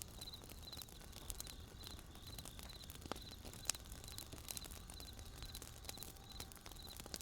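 Wood fire crackling with sharp irregular pops, one louder pop midway, over a low steady rumble, while crickets chirp in short pulsed trills about twice a second.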